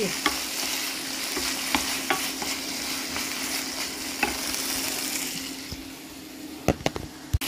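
Diced lardons and tomatoes sizzling in a frying pan as they are stirred with a wooden spatula, with short scrapes of the spatula against the pan. The sizzle drops off after about five seconds, and a few sharp knocks sound near the end.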